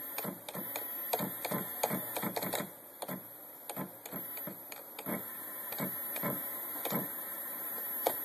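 Homemade aluminium CNC Z axis driving its slide back up, a string of short mechanical ticks about two or three a second over a steady very high whine.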